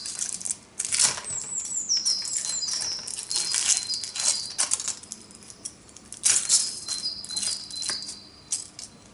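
Plastic packaging crinkling and rustling in short bursts as a surprise toy is unwrapped. A bird chirps high and thin in the background, with a few quick falling chirps a little over a second in.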